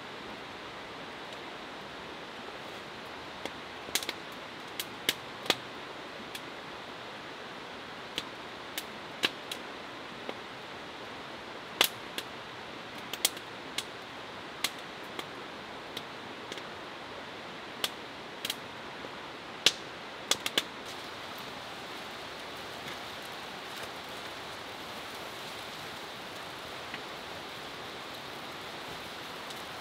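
Steady rain hiss with irregular sharp taps of heavier drops striking the shelter. The taps come mostly in the first two-thirds, then only the rain goes on.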